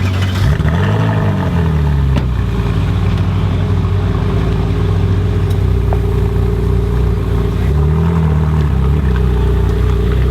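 Car engine idling, blipped twice, with the pitch rising and falling about half a second in and again near eight seconds.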